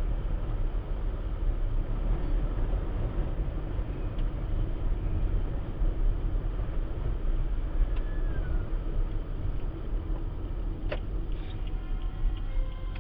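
Car driving in strong wind, recorded by a dashcam: a steady low rumble of wind buffeting and road noise, with a single sharp knock about eleven seconds in.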